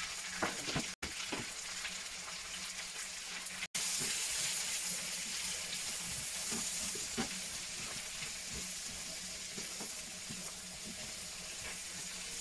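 Diced peppers, tomatoes and onion sizzling in a hot non-stick grill pan, with a spatula scraping and clicking against the pan as they are stirred. The sizzle gets louder about four seconds in.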